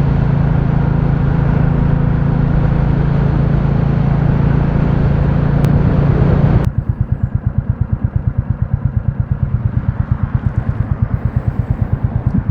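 Royal Enfield Classic 350's single-cylinder engine running on the move with heavy wind and road noise; about halfway through the wind noise cuts off suddenly and the engine is left idling with a quick, even beat.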